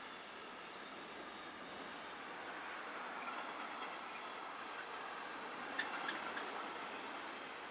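A train rolling past on the line, a steady rumbling rush of wheels on rails with a few sharp clicks about six seconds in.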